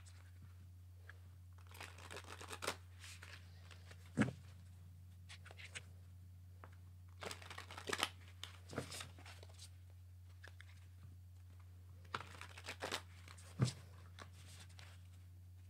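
Tarot cards being handled and shuffled in short flurries of faint rustling and flicking, with two sharper taps. A faint steady low hum runs underneath.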